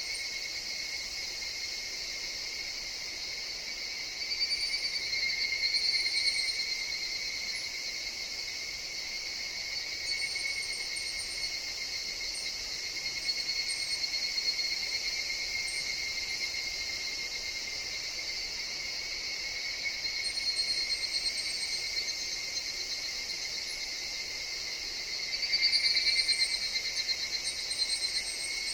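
A chorus of higurashi (evening cicadas) calling in a steady high-pitched drone. Nearer calls swell louder several times, the loudest near the end.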